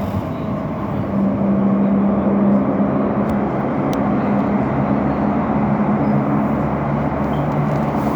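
Elizabeth line Class 345 train running, heard from inside the carriage: a steady rumble of wheels and running noise. A motor hum comes in about a second in and gets louder as the train picks up speed.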